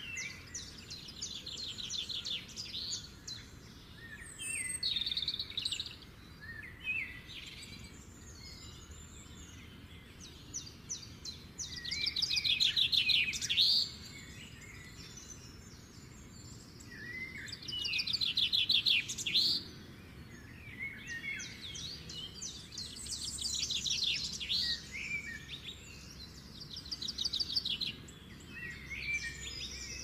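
Songbirds singing in repeated bursts of rapid, high trilled notes, loudest about twelve seconds in and again around eighteen seconds, over faint low background noise.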